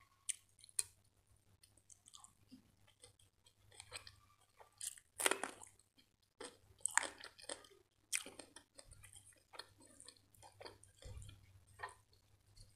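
Close-up mouth sounds of chewing a mouthful of butter chicken, rice and raw cucumber: irregular wet, crunchy chews, the strongest about five seconds in.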